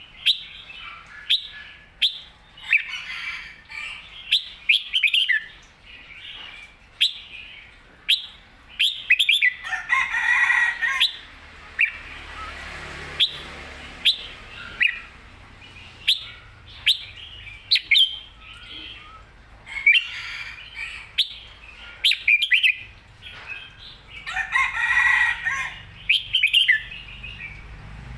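Red-whiskered bulbul singing: short, clear whistled phrases and sharp chirps, repeated throughout, with two longer, louder phrases about a third of the way in and near the end.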